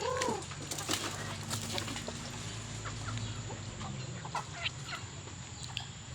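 Backyard chickens clucking and calling, with a short falling call at the start and some wing flapping and scuffling in the first couple of seconds.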